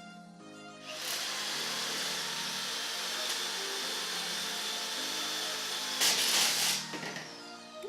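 Electric drill running for about six seconds as it bores a hole wider, with a louder stretch just before it stops. It is a weak borrowed drill that barely cuts; the owner notes the bit is not even getting hot.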